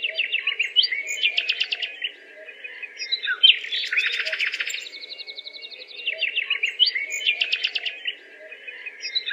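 Small birds chirping and singing in rapid trills and quick high notes, the same run of calls coming round again about every five and a half seconds.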